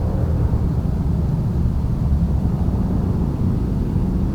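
Steady low rumble of jet aircraft engines.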